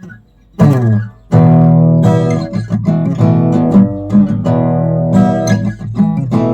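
Acoustic guitar strummed, starting about half a second in after near silence, with a steady run of chords.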